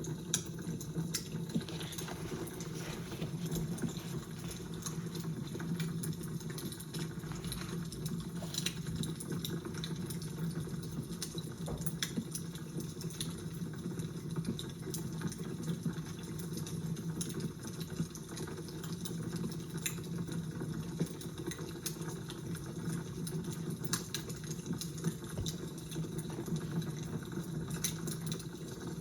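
Fire crackling: scattered sharp crackles and pops over a steady low rumble.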